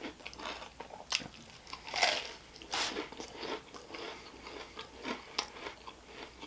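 A person chewing and crunching a mouthful of deep-fried chimichanga with a crisp fried corn tortilla, with a few louder crunches about two and three seconds in.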